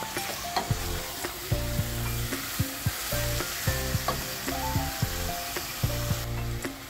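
Chicken pieces and onion sizzling in a stainless steel saucepan as they are stirred with a wooden spoon, the spoon knocking and scraping against the pan now and then. The hiss falls away near the end.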